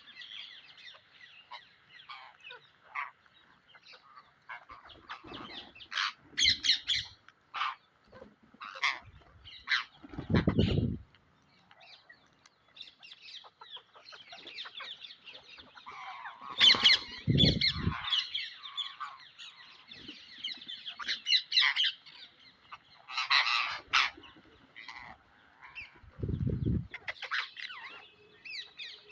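Pet Psittacula parakeet squawking and chattering in short, irregular calls. Three low thuds are mixed in, about a third of the way in, just past halfway and near the end.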